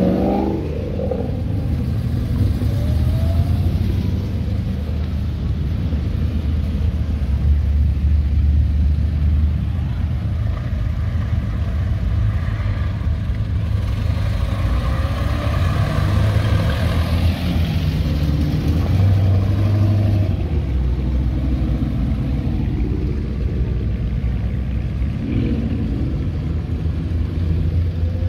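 Car engines running as a line of cars and a pickup drive slowly past one after another: a steady low rumble, with rising revs as one pulls away near the start.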